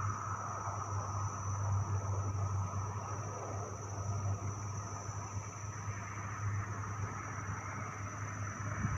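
Turbine aircraft engine running steadily at a distance: a low steady hum with a thin high whine over it.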